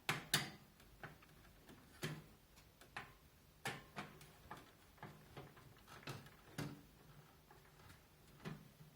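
Screw being turned by hand into a computer case fan's unthreaded mounting hole, cutting its own thread: irregular sharp clicks, about one a second.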